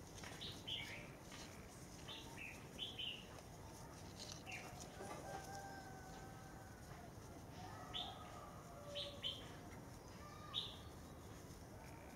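Small birds chirping in short, sharp calls, a few at a time in scattered clusters, with some fainter, longer calls further off.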